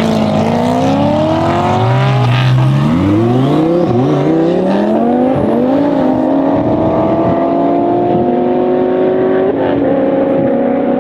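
Twin-turbo Audi R8 V10 engine accelerating hard under full throttle. It climbs in pitch through several quick gear changes in the first half, then pulls steadily and slowly higher in a long gear.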